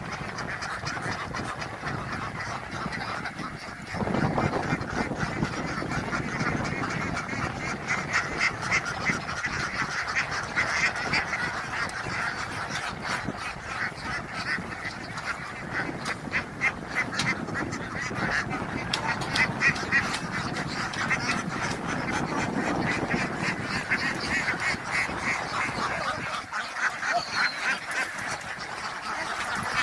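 A large flock of ducks calling without pause, many quacks overlapping into a dense, continuous chatter that grows louder about four seconds in.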